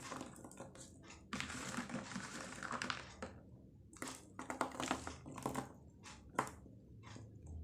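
Rustling and scraping, then a few light taps and clicks, as bird's-eye chilies and chili sambal are mixed over an egg martabak.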